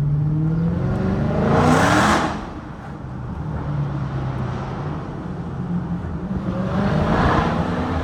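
Dodge Challenger Hellcat's supercharged 6.2-litre V8 accelerating through its mid-muffler-delete exhaust. The engine note climbs in pitch for about two seconds to a loud peak, drops off sharply, then builds and climbs again near the end.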